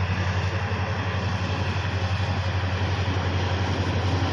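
Train running by with a steady roar and a constant low hum.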